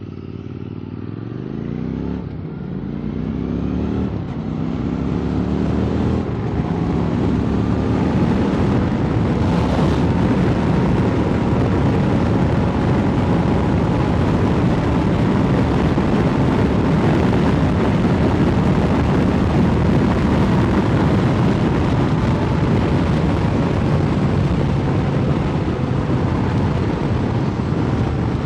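Motorcycle with an Arrow slip-on exhaust accelerating up through the gears, its engine note climbing and dropping back at each shift in the first few seconds. It then runs steadily at speed, with rising wind noise on the microphone.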